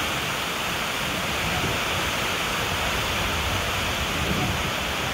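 Heavy rain pouring steadily onto a river and a wet wooden deck, a dense, even hiss.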